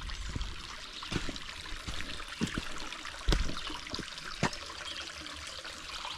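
A small stream trickling and splashing over rocks, with a few scattered clicks and knocks and one low thump about three seconds in.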